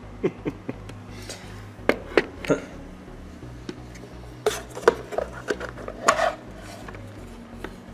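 Hard plastic clicks, knocks and rattles of a robot vacuum's dust bin being handled, about a dozen sharp taps at uneven intervals, over a faint steady hum.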